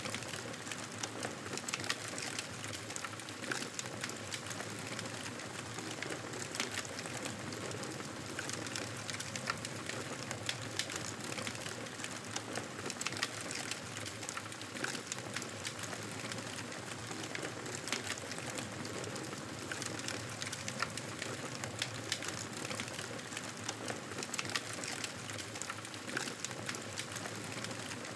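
Campfire crackling and hissing steadily, with frequent small sharp pops.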